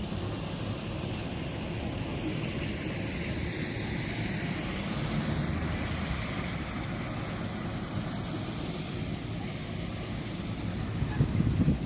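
Steady rumble and hiss of engine noise passing by, with a slowly shifting whoosh in its higher part; it grows a little louder near the end.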